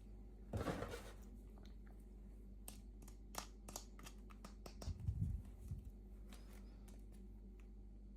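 Hands handling small toy packaging: a short rustle just after the start, scattered light clicks and taps, and a soft bump about five seconds in.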